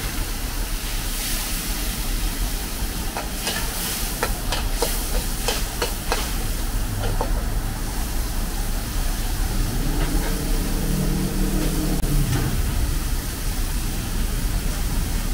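Food stir-frying in a wok with a steady sizzle, and a metal spatula clicking against the pan several times a few seconds in. A low drone swells and fades about two-thirds of the way through.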